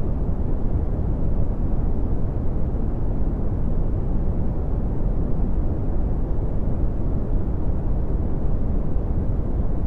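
Red (Brownian) noise: a steady, deep rumbling hiss, strongest in the bass and fading steeply toward the treble, with no changes or events.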